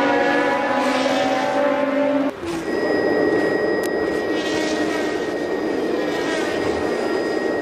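Formula One race car engine running at high revs, a steady pitched note, cut off abruptly about two seconds in and replaced by a rougher, noisier engine sound with a thin steady high whine over it.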